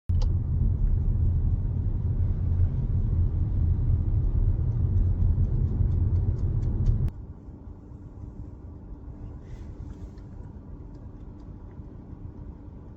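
Car driving in a windstorm: a loud, deep rumble with scattered ticks for about seven seconds. It cuts off abruptly to a much quieter, steady driving noise with a faint low hum.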